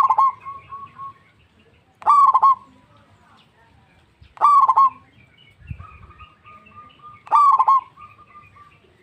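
Zebra dove (perkutut) cooing: four loud, short, rapid phrases, each about half a second long and repeated every two to three seconds. Fainter chirps and a thin drawn-out note sound between them.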